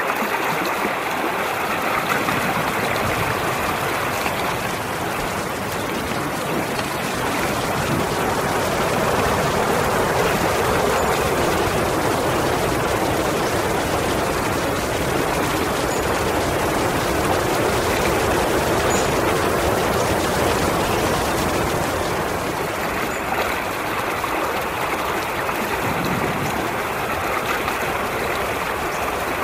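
Running water flowing steadily, an unbroken rush like a stream, swelling slightly in the middle.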